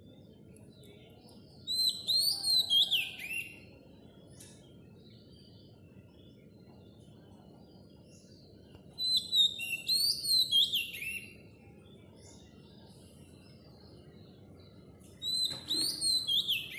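A songbird singing the same short, high, slurred phrase three times, each about two seconds long and several seconds apart, over a faint steady low hum.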